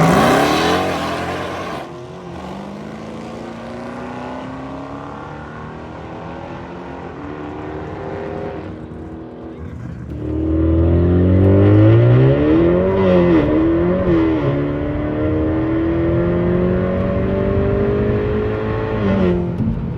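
Cars running at full throttle down a drag strip, their engine notes climbing in pitch as they pull through the gears, with a wavering rise and fall of pitch in the middle. The sound comes in a few clips that cut off abruptly.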